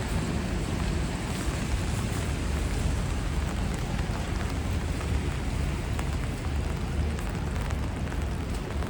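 Rainy city street ambience: a steady wash of rain with scattered drop ticks over a low rumble of passing traffic.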